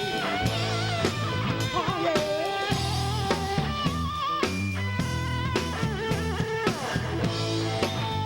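Band playing rock or blues: electric guitar with bending lead notes over bass and a steady drum-kit beat.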